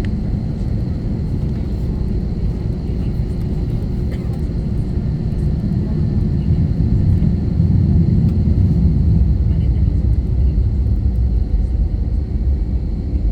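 Airliner cabin noise from an Airbus A321-231 taxiing, with its IAE V2500 engines at low thrust: a steady low drone that swells a little about seven seconds in and eases slightly near the end.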